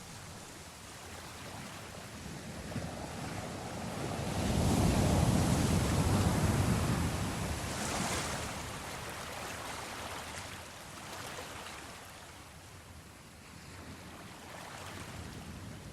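Sea waves surging and washing: one large swell builds about four seconds in and subsides, followed by a hissing wash of water.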